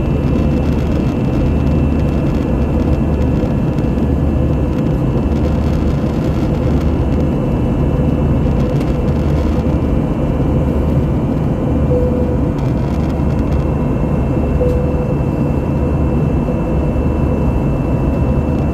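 Airbus A321-200 jet engines and airflow heard from inside the cabin: a steady, loud rumble with a faint constant whine over it.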